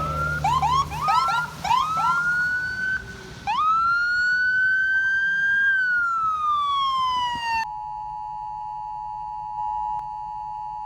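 Emergency vehicle siren giving a run of quick rising yelps, then one long wail that rises and falls. About seven and a half seconds in it gives way to a steady two-tone emergency alert attention signal.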